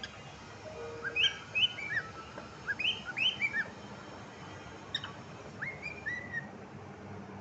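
Cockatiel chirping and whistling: short, quick up-swept notes in a couple of rapid clusters, with a pause in between.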